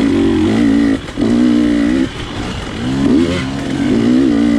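GasGas dirt bike engine being ridden hard, revving up and backing off repeatedly as the throttle is worked. The pitch drops off briefly about one second and two seconds in, then climbs again.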